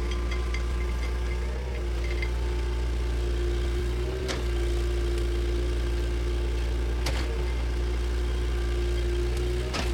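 Bulldozer's diesel engine running steadily, with three short sharp knocks or clanks spread through.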